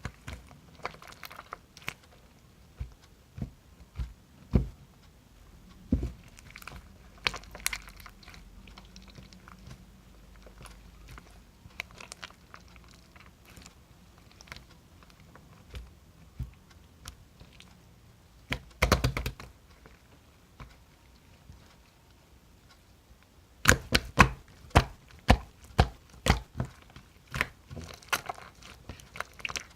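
Close-miked eating of honeycomb: irregular sticky chewing and mouth clicks, with a quick run of sharp clicks a few seconds before the end.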